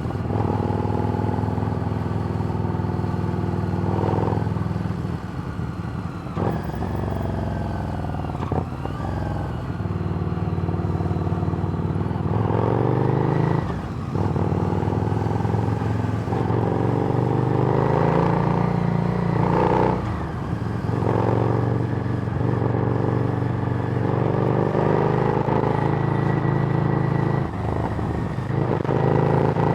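Harley-Davidson Street Rod's 750 cc V-twin running through a Screamin' Eagle exhaust while riding. The engine note rises as it pulls and drops back at each gear change, several times over.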